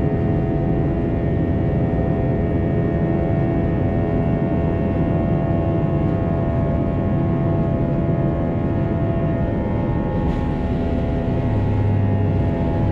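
Steady cabin noise of an Airbus A321-231 in flight, heard from a window seat: the rush of its IAE V2500 turbofan engines and the air over the fuselage, with several steady whining tones. A faint click comes near the end, and a low hum joins soon after.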